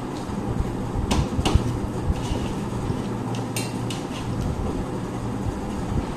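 Dishes and a serving spoon clinking and tapping during a meal: a handful of sharp knocks, one with a short ring about halfway through, over a steady low hum.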